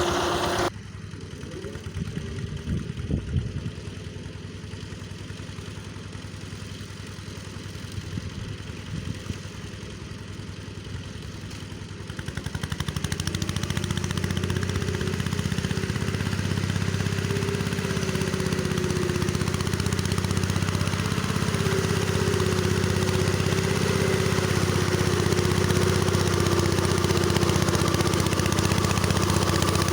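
Tractor engine running with a rotary mower working, quieter for the first twelve seconds or so, then louder and steady with a wavering whine over the engine drone.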